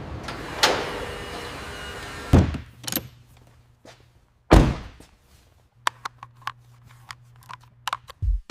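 A few heavy thuds and a sharp clack of car doors or panels being shut or set in place, then a run of light clicks over a low hum.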